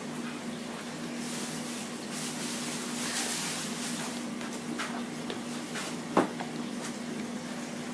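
Washing machine running in the next room: a steady hum, with a rushing hiss of water that swells between about one and four and a half seconds in. A single sharp click about six seconds in.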